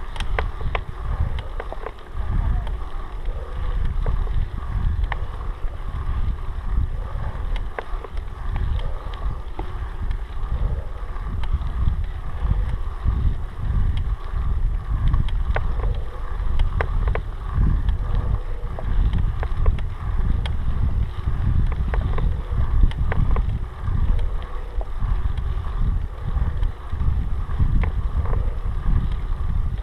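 Wind buffeting the microphone: a continuous low rumble that rises and falls, with scattered faint clicks and rattles on top.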